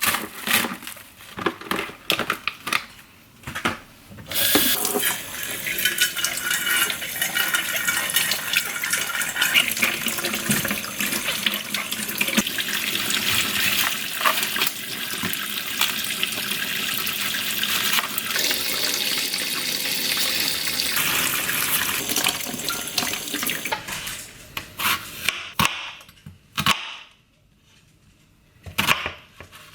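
Tap water running steadily into a sink for about twenty seconds, with knocks and clatter before it starts and after it stops.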